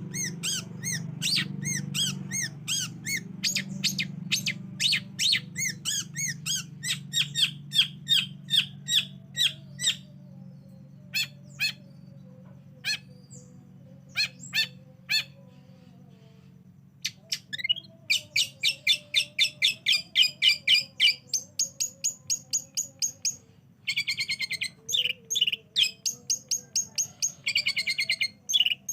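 Long-tailed shrike (cendet) song: fast runs of sharp, repeated high notes, thinning to scattered notes in the middle, then dense rapid series and buzzy, scratchy phrases toward the end, over a steady low hum.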